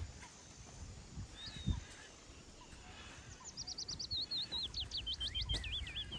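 A small songbird singing: a single short high chirp, then from about three seconds in a rapid run of high notes that slide down in pitch and end in looping warbles. Low rumbles and thumps sit underneath.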